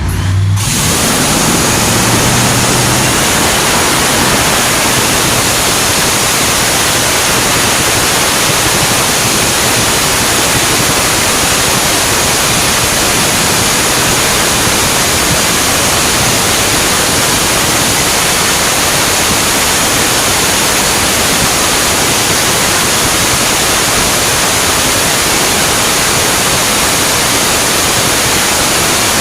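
Top Fuel dragster's supercharged, nitromethane-burning Hemi V8 running steadily on test, very loud and harsh enough to come through as a dense, even noise, with a low hum in the first few seconds.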